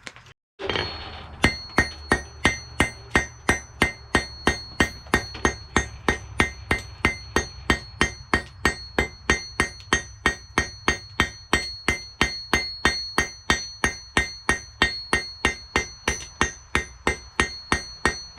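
Blacksmith's hammer striking a hot steel punch on the anvil in steady, even blows of about three a second, each with a bright metallic ring, while the point is drawn round. It starts about a second in, after a short rush of noise.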